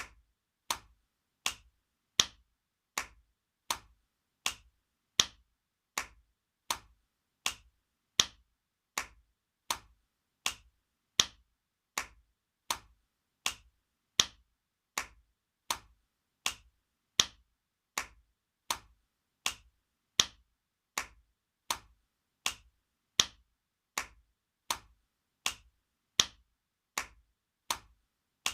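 Spanking sound effect: sharp hand slaps on skin, repeated evenly about four times every three seconds, each dying away quickly. Every few seconds one slap is a little louder.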